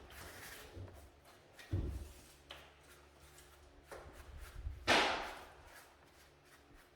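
Handling noises: scattered light knocks, a low thud about two seconds in, and a loud brief scraping rush about five seconds in that fades quickly.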